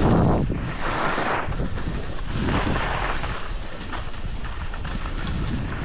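Wind rushing over the microphone of a camera moving downhill on a ski run, a steady low rumble that swells and fades every second or so, with snow hissing beneath.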